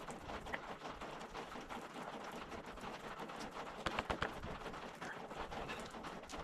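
Light clicks and taps of small metal parts being handled, with a couple of sharper clicks about four seconds in.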